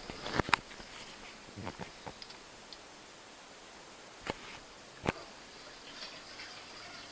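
Scattered sharp clicks and knocks from a Siemens dishwasher being handled. The loudest pair comes right at the start, a few lighter ones follow, and two more sharp knocks come about four and five seconds in.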